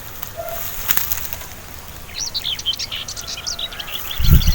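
Small birds chirping, many short quick chirps overlapping from about two seconds in. A click about a second in, and a low rumble near the end.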